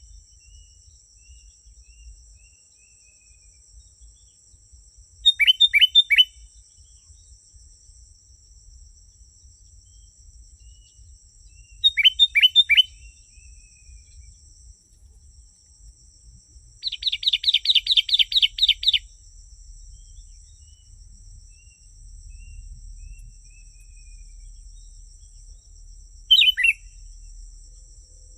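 Sooty-headed bulbul (kutilang) calling. It gives three short phrases of three or four quick falling whistled notes, and a rapid chattering run of about a dozen notes that lasts about two seconds midway. Softer bird notes come in between the phrases, over two faint steady high tones.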